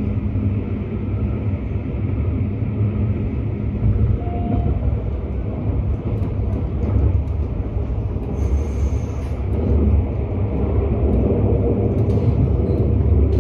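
Running noise of an Elron Stadler FLIRT electric train heard from inside the passenger car: a steady low rumble of wheels on rail, with a brief high-pitched tone about eight seconds in.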